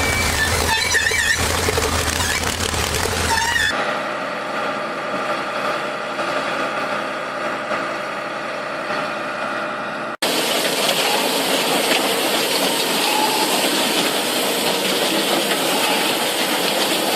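Heavy farm machinery engines running, in three spliced clips that change abruptly about four seconds in and again about ten seconds in; the first has a deep steady hum with some high wavering squeals.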